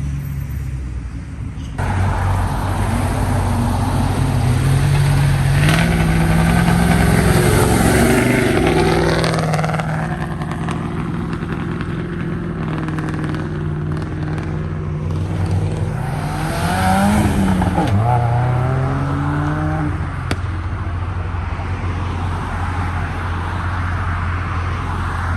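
Dodge Challenger SRT Demon 170's supercharged V8 running at low speed, its pitch rising as it is given throttle about five seconds in and again around seventeen seconds in.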